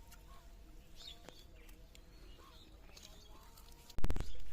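Faint bird chirps over a quiet background, then a sudden loud knock or thump about four seconds in.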